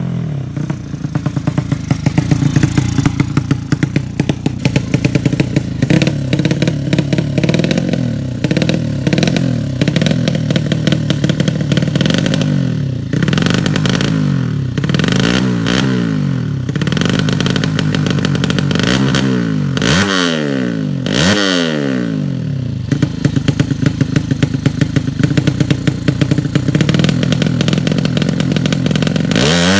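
A 200cc drag-race motorcycle engine being revved hard again and again, its pitch climbing and dropping, with a rattling, crackling exhaust. The revs fall away sharply twice a little past two-thirds of the way through.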